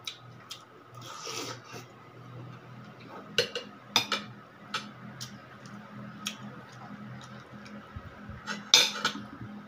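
Spoon and fork clinking and scraping against a plate during a meal: scattered sharp clicks a second or so apart, the loudest near the end, over a low steady hum.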